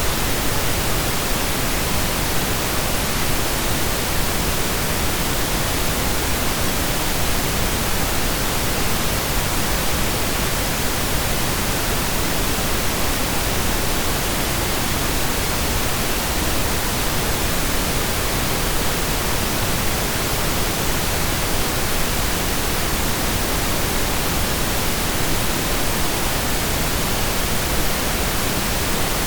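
Steady synthesised pink noise: an even, unchanging hiss spread across the whole range, like rain or a distant waterfall.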